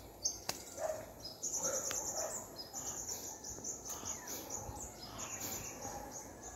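Small birds chirping in quick, high-pitched trilled runs, starting about a second and a half in and repeating for several seconds, with a few lower chirps in between.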